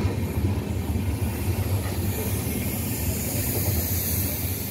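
Indian Railways passenger coaches rolling past on the adjacent track: a steady, low rumble of wheels on rails.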